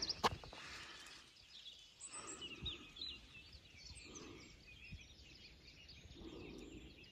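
Faint birdsong in open countryside: small birds chirping, with a few quick rising calls close together about three seconds in.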